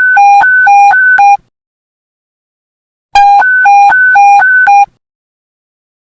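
Police radio panic-button alert tone: two bursts of a two-tone electronic beep rapidly alternating between a lower and a higher pitch, about four tones a second, with a pause of under two seconds between bursts.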